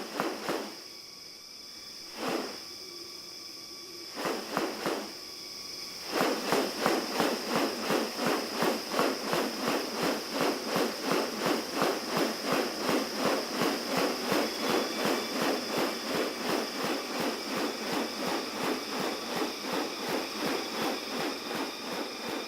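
Insects: a steady high-pitched whine, joined by a few scattered sharp chirps, then from about six seconds in by a fast, even pulsing of about three pulses a second that keeps on.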